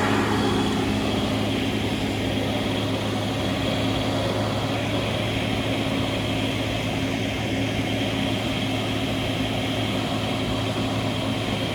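Heavy diesel engine of an army recovery vehicle running steadily at a constant speed while it builds up pressure before a pull.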